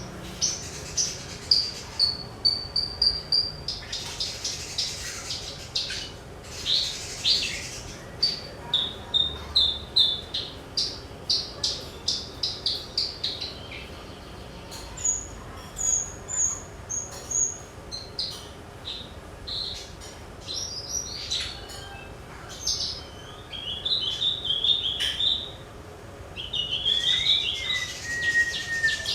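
Javan bush lark (branjangan) singing a long, varied song of quick chirps, trills and short whistles, in phrases with brief pauses between them.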